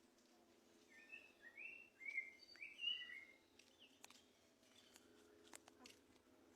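Faint birdsong: a quick phrase of about six short whistled notes, each sliding in pitch, followed by a few sharp clicks.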